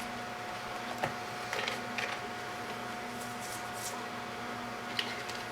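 Light handling noise of tape and wire being pressed down on a robot enclosure: a few soft clicks and short rustles over a steady faint electrical hum.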